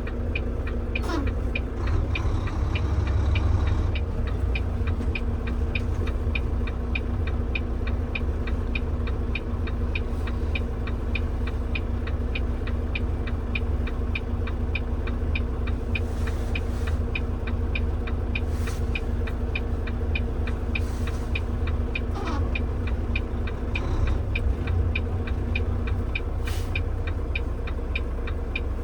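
Tractor-trailer diesel engine running steadily in the cab with a low rumble, over a turn-signal indicator ticking at an even pace of a few ticks a second.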